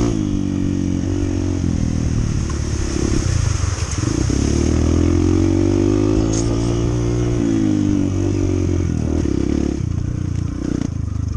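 Honda CT125's single-cylinder four-stroke engine running under way, its pitch rising and falling with the throttle and easing off near the end.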